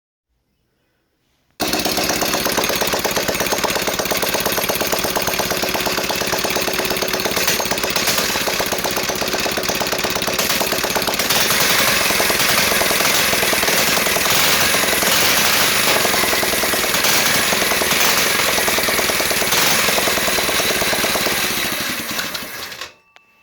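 The 212cc Predator single-cylinder engine on a Chinese ATV running loud, with a fast, even firing pulse; it starts abruptly about a second and a half in and cuts out shortly before the end.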